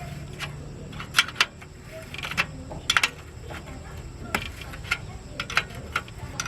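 Hand tools clicking and tapping on metal parts at irregular intervals, over a low steady hum.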